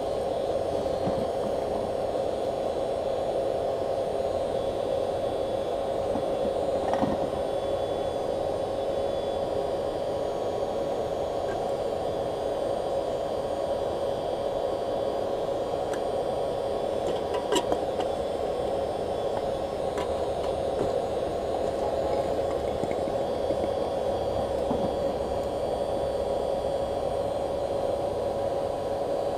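Electric blower running steadily, forcing air into a briquette-fired paint-can furnace: a constant rushing hiss with a steady mid-pitched whine. A couple of short faint clicks come through, the sharpest about two thirds of the way in.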